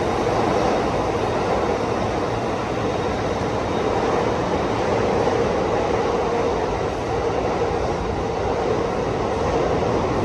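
Chichibu Railway steam locomotive, C58 363, giving off a steady hiss and rumble of steam with no rhythm and no beat.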